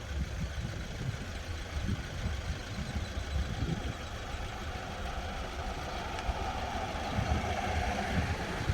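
Steady rumble of a vehicle heard from inside, engine and road noise, with a band of hiss that grows a little louder near the end.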